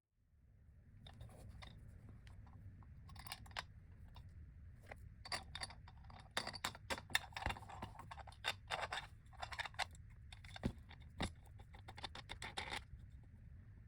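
Hand-cranked vintage Italian box coffee mill with a stamped tin body, grinding coffee beans: irregular crunching and cracking as the beans are crushed in the burrs, getting denser and louder about halfway through.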